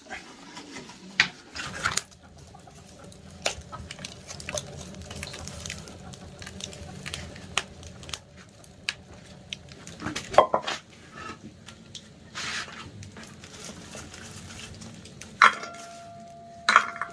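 Metal pots and utensils clattering and knocking, with a couple of ringing metal clanks near the end.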